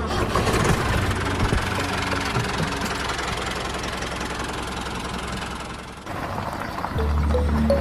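A small engine running with a rough, noisy tone that eases off and drops away about six seconds in.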